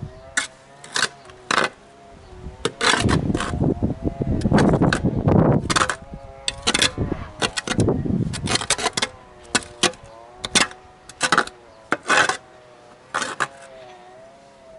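Irregular sharp strikes of hand tools on an old masonry foundation being broken apart, some in quick clusters, with a denser stretch of crashing and rubble about four to six seconds in.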